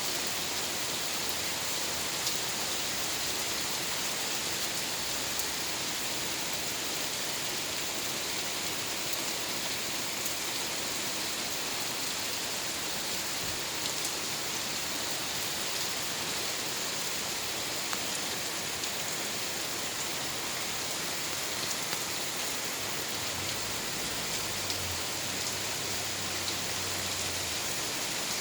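Steady rain falling: an even hiss with occasional faint ticks of drops.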